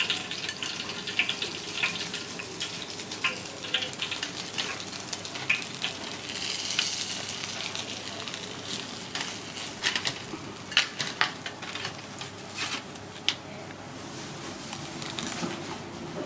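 Food frying in hot oil: a steady sizzle with sharp pops and clicks scattered through it.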